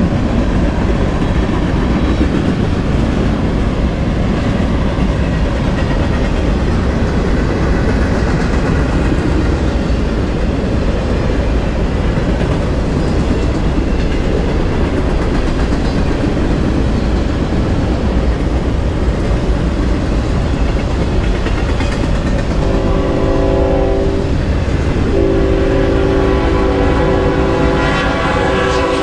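Freight train cars rolling past with a steady rumble and wheel clatter on the rails. About three quarters of the way through, an approaching CSX diesel locomotive sounds its multi-note air horn for the grade crossing: a short blast, then a longer one.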